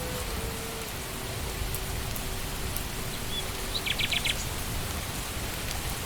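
Steady rain falling on leaves and ground, with a bird giving a quick run of about five short chirps around four seconds in.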